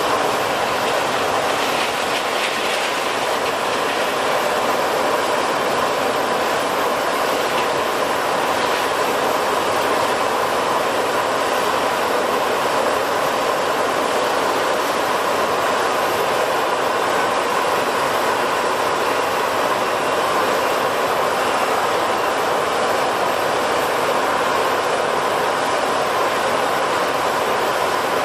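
Jet airliner engines running with a steady rushing roar and a faint whine, holding at an even level throughout without rising or falling.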